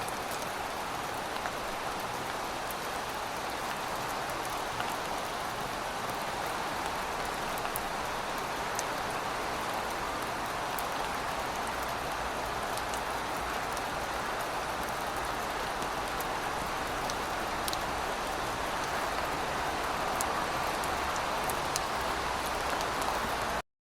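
Steady rain falling, an even hiss with scattered sharp drop ticks, cutting off suddenly near the end.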